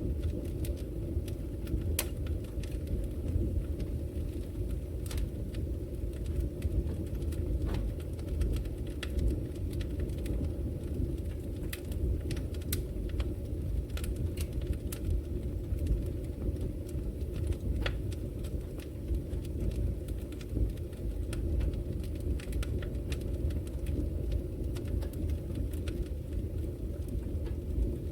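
Wood logs burning in a fireplace: a steady low rush of flame with frequent sharp crackles and pops scattered irregularly through it.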